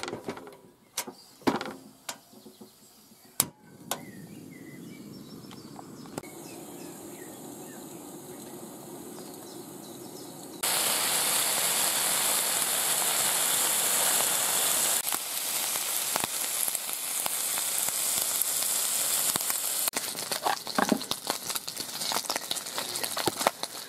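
Steady sizzling hiss of food frying. It starts quieter and jumps suddenly much louder about ten seconds in. A few sharp clicks and knocks come in the first seconds and again near the end.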